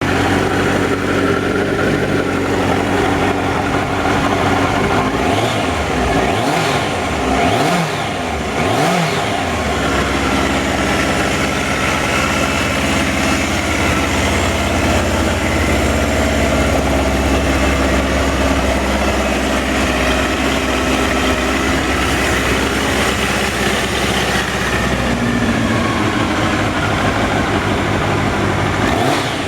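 1999 Triumph Trophy 1200's inline-four engine running on a test run at about 98,000 km. It idles and is blipped several times, the revs rising and falling quickly, then holds a steady, higher idle before another blip near the end.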